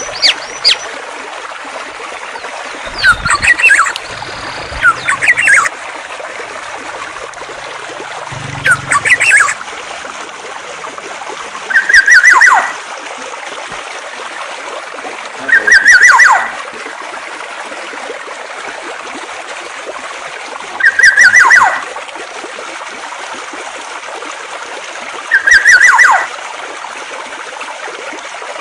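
Songbird calls over a steady stream of running water. A few quick, irregular phrases come first. Then a single call repeats four times, about every four to five seconds, each a short burst with a falling note at its end.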